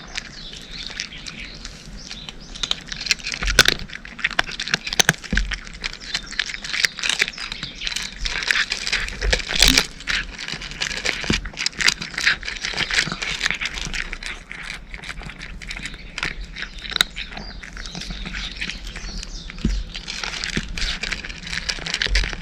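A cat chewing dry kibble: a rapid, continuous run of crisp crunches, with a few dull knocks along the way.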